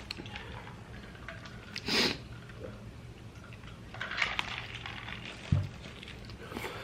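Close-up eating sounds: mouth noises and chewing, with a short crackling burst about two seconds in, a scratchy stretch with small clicks around four seconds, and a brief low thump a little later.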